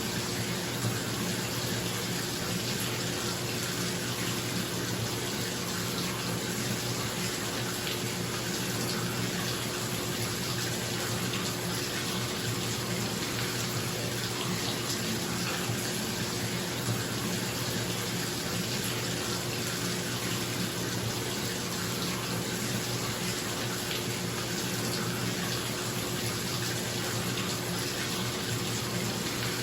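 Bathtub tap running into a filling tub, a steady rush of water, with a bathroom exhaust fan humming steadily underneath.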